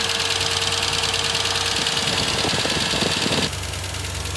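1998 Ford Ranger's 4.0-litre V6 idling with a steady, fast chopping, ticking knock; its source in the engine, top end or bottom end, is not identified. The higher part of the sound drops a little about three and a half seconds in.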